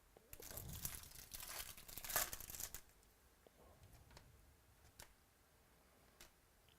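A trading-card pack's foil wrapper being torn open and crinkled for about three seconds, then a few faint clicks.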